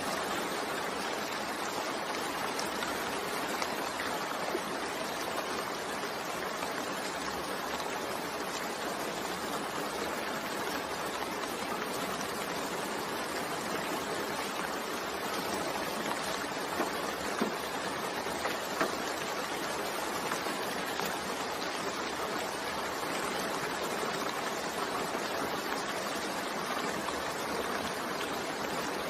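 Steady rain falling, an even wash of patter with faint scattered drips.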